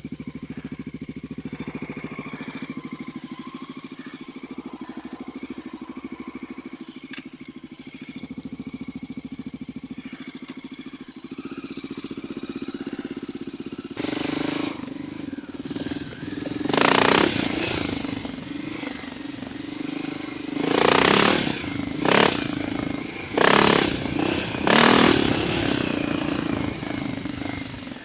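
Dirt bike engine running steadily at low revs, then pulling harder from about halfway through. Near the end, five short loud bursts of noise break over it.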